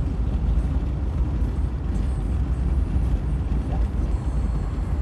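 Wind and road noise in a moving car with a window open: a steady low rumble of wind buffeting.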